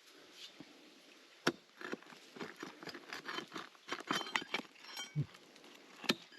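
Iron bar striking and chipping at rock: a string of sharp, irregular knocks and clinks, the sharpest about a second and a half in, then coming thicker and faster.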